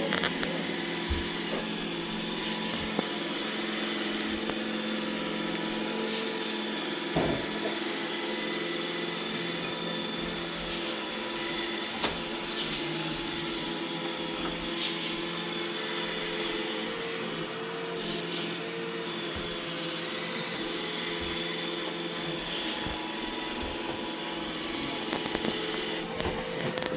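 iRobot Roomba E6 robot vacuum running, a steady motor and brush whine over a hiss, with a few brief knocks along the way.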